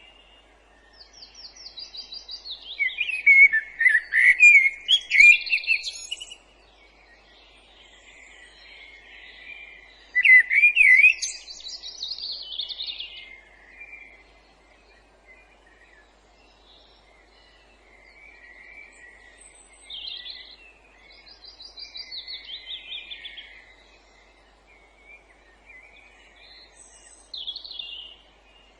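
Several songbirds singing in woodland, overlapping phrases of rapid repeated notes and trills, with the loudest stretches a few seconds in and again about ten seconds in.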